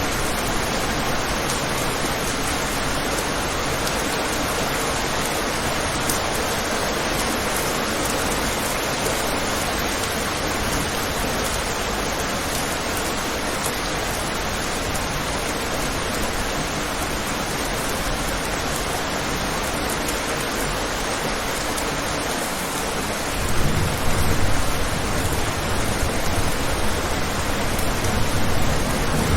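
Steady rain falling. A little over three-quarters of the way through, a low rumble of thunder comes in and grows louder toward the end.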